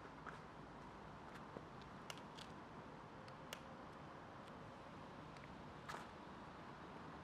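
Near silence: room tone with a faint steady hum and a few scattered soft clicks.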